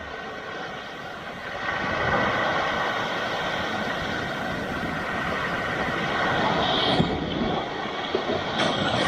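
Sea waves breaking on a rocky shore: a continuous roar of surf that swells about two seconds in, with a sharper splash about seven seconds in.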